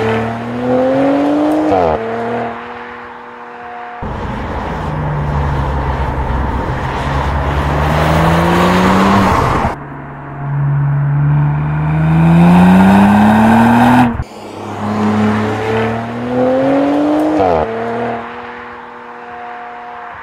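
Audi RS4 Avant's twin-turbo V6 engine pulling hard, its note rising in pitch in several separate runs, with abrupt cuts between them and a steadier, lower note in between.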